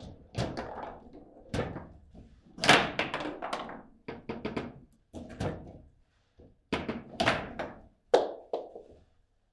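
Table football rally: the ball is struck by the players on the rods and bangs off the table's walls, giving sharp knocks in irregular clusters with short pauses between them.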